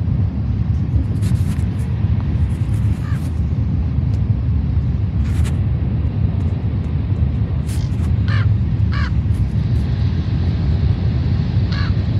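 Steady low outdoor rumble, with a bird cawing twice about eight seconds in and again just before the end.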